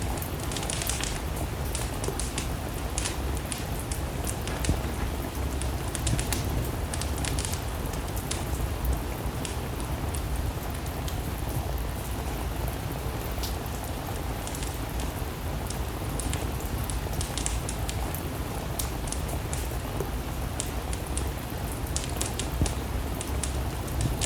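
Steady rain falling, mixed with a wood fire crackling, its sharp pops scattered irregularly through.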